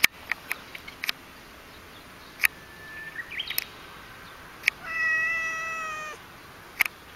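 Domestic tabby cat giving one drawn-out meow that falls slightly in pitch, past the middle. Several short, sharp clicks are scattered through.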